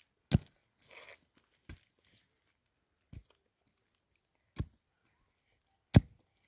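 Five sharp thuds at an even pace, about one every second and a half, the last two the loudest, with a faint crunching scrape between the first two.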